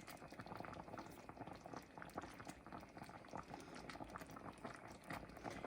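Coconut milk sauce boiling in a pan, with faint, irregular popping of bubbles.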